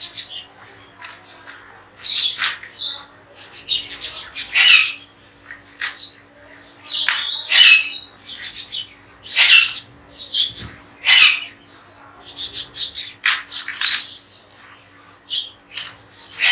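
Parrots squawking, a string of harsh, loud calls coming about every second.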